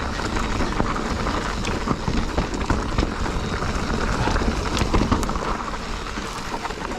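Mountain bike ridden over rocky singletrack: tyres and frame rattling over rocks with many sharp knocks, over a steady low rumble.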